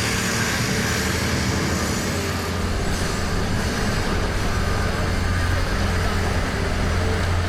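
Downtown street traffic with a vehicle engine running close by, its low rumble growing stronger about two and a half seconds in.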